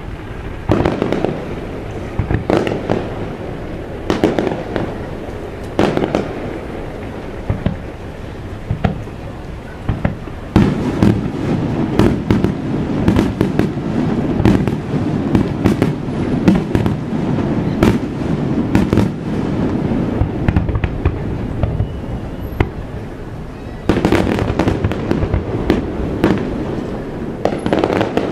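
Aerial fireworks bursting: separate booms every second or two at first, then from about ten seconds in a dense, rapid barrage of booms and crackles, which eases briefly near the end before another dense run.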